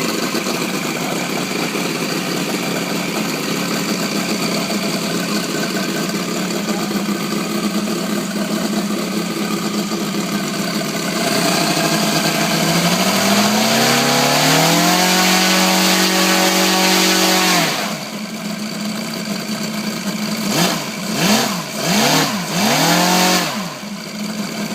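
Mitsubishi Lancer Evolution VII's turbocharged four-cylinder running through a handmade muffler: idling steadily, then revved up about halfway through and held high for a few seconds before dropping back. It then gets about four quick throttle blips near the end.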